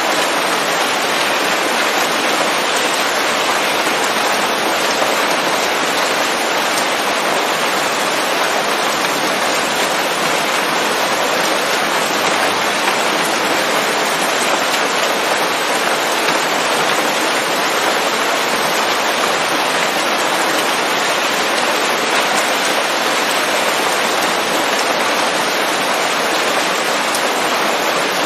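Steady, heavy rain pattering on leaves, a dense even hiss that doesn't change.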